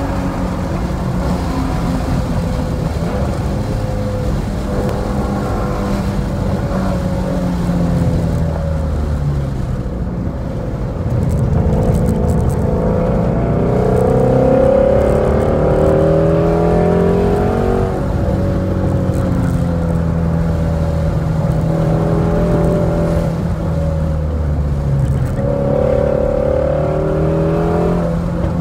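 A car's engine heard from inside the cabin on a racetrack lap. Its pitch sags as the car slows hard from about 100 mph, then climbs in several rising sweeps as it accelerates out of the bend, with another climb and a gear change near the end.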